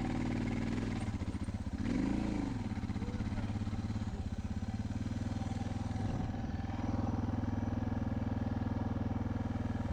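Motorcycle engine running at a steady, low engine speed.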